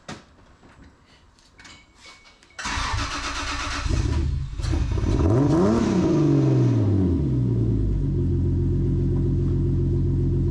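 Toyota 2JZ straight-six engine cranked by its starter about two and a half seconds in. It catches, stumbles briefly, revs up and falls back, then settles into a steady idle. This is the engine's first start, untuned and running on a fuel pump wired straight to power.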